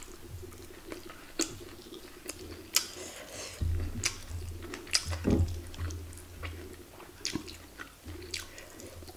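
A person chewing a mouthful of food, with scattered short, sharp wet clicks from the mouth over a low steady hum.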